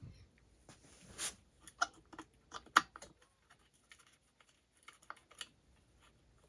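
Scattered light clicks and clinks of a small hand tool and metal parts being handled, likely the 3 mm Allen wrench being picked up and set to the ignition module's small bolts. There is a brief rustle about a second in, and the sharpest click comes near the three-second mark.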